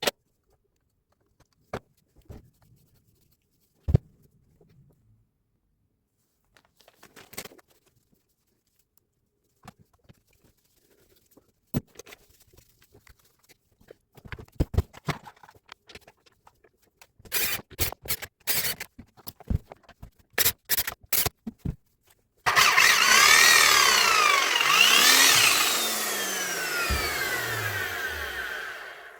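Scattered clicks and knocks of parts and tools being handled. Then, about 22 seconds in, a Hilti TE 76 ATC rotary hammer's electric motor starts abruptly and runs loudly, its pitch swinging up and down, before cutting off right at the end.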